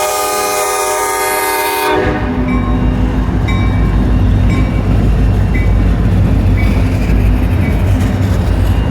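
Diesel locomotive horn sounding a loud chord that cuts off about two seconds in, followed by the heavy, steady rumble of the R.J. Corman locomotives' diesel engines as the empty coal train passes.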